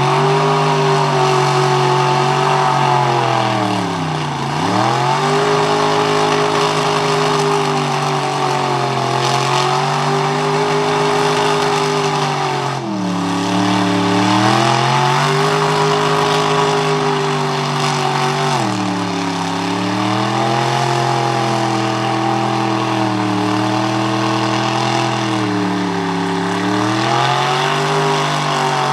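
Mega truck engine running hard and continuously in mud. Its pitch drops sharply and climbs back up several times, about four seconds in, near thirteen, around nineteen and again near twenty-seven seconds.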